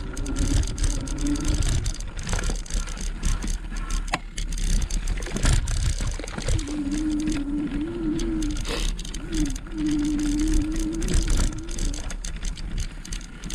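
Wind buffeting the action camera's microphone and tyre noise from an electric bike riding along, with scattered knocks and rattles. A wavering hum sounds briefly at the start and again from about six and a half seconds to twelve seconds in.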